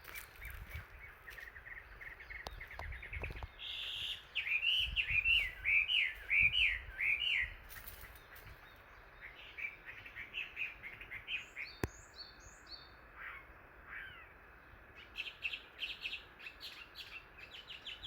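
Wild birds singing and calling, more than one voice: a loud phrase of repeated slurred notes about four seconds in, then scattered calls and quick runs of short notes near the end.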